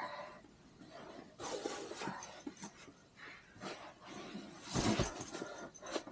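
Rustling and shuffling of bedding as someone settles into bed, in irregular bursts, with a heavier thump about five seconds in.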